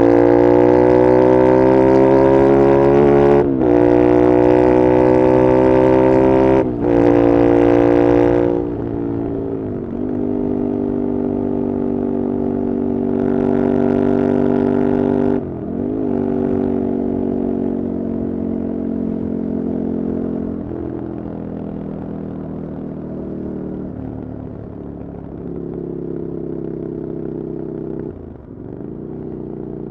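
Ducati Desert Sled's air-cooled L-twin engine through an open LeoVince exhaust with no dB killer, pulling hard with a rising note and shifting up twice in the first several seconds. It then eases off to a lower, steady note while cruising, with a few more brief breaks in the sound as it changes gear.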